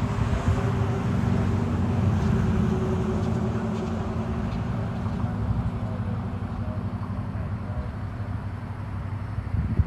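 Street traffic: a motor vehicle's engine running close by, getting louder about two seconds in and then slowly fading.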